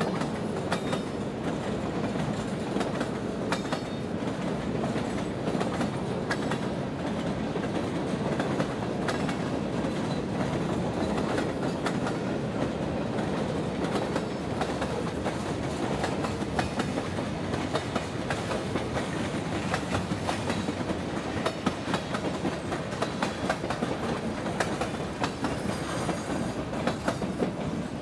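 Freight train cars rolling past: a steady rumble of wheels on rail with a rapid clickety-clack of wheels over rail joints, dropping away right at the end as the last car goes by.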